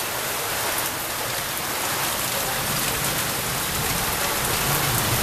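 Heavy rain pouring down and drumming on surfaces in a steady, dense hiss.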